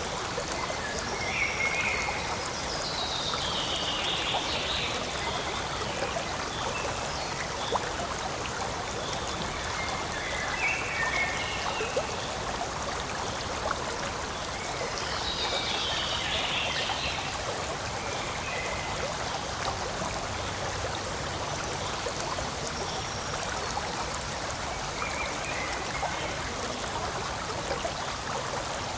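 Forest stream flowing steadily, an even trickling rush of water, with a few brief brighter splashes or chirps standing out now and then.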